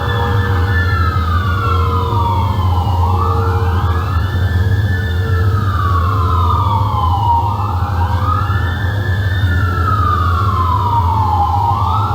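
Emergency-vehicle siren wailing, each cycle rising quickly and then falling slowly, about once every four seconds, over a steady low hum.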